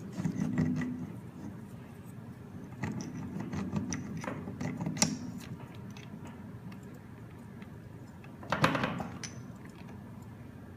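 Metal gearbox parts clinking and clattering as they are handled and fitted during a Hydramatic automatic gearbox rebuild, with one louder metallic clank about 8.5 seconds in.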